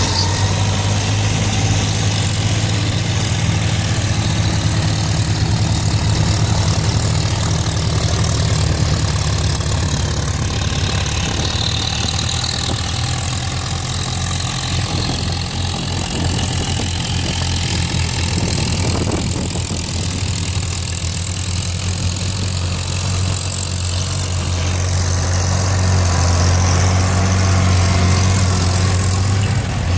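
Antique tractor engine running steadily with a low, continuous drone.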